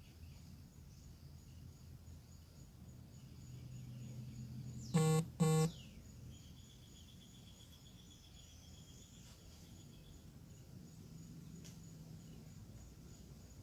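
Faint outdoor ambience of bird calls and insect chirring, broken about five seconds in by two short, loud horn-like beeps in quick succession, just after a low hum swells up.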